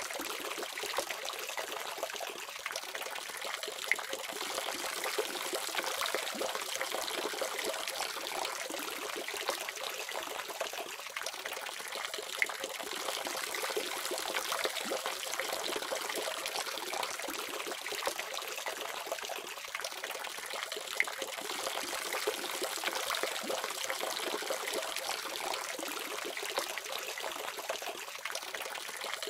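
Water running steadily from a faucet, an even splashing stream with a few brief sharper splashes.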